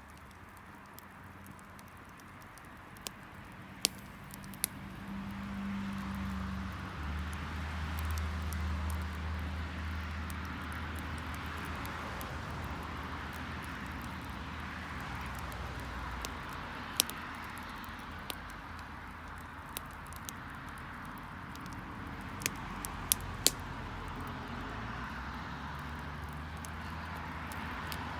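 Garden wood fire crackling, with sharp single pops scattered through, several in a cluster near the end. Under it a low engine hum swells in after about five seconds and fades away, a vehicle going past.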